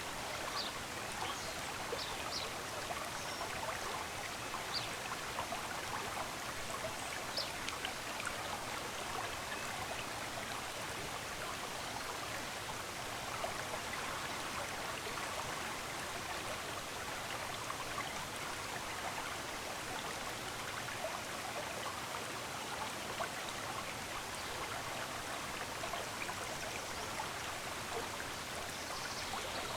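Running water of a stream flowing steadily, with a few brief, faint high bird chirps over it.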